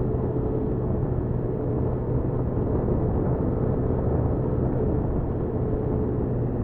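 Honda Super Cub 50's small four-stroke single-cylinder engine running steadily while riding, mixed with road and wind noise.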